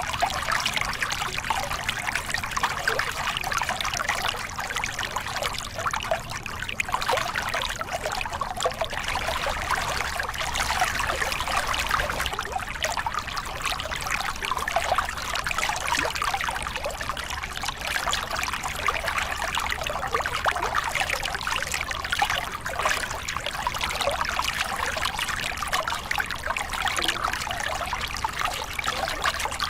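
Small river cascade: water pouring and splashing over rocks in a steady, continuous rush with a bright splashing texture.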